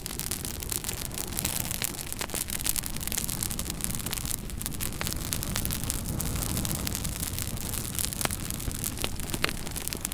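Fireplace fire crackling: frequent sharp pops and snaps over a steady low rumble and hiss of the flames.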